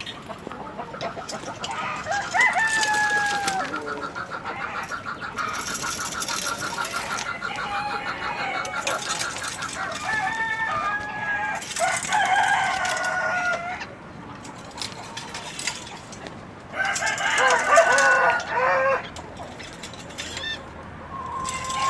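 Domestic chickens clucking and calling, with a rooster crowing. The calls come in several separate bouts, including a long rapid trill, and the loudest bout comes about three-quarters of the way through.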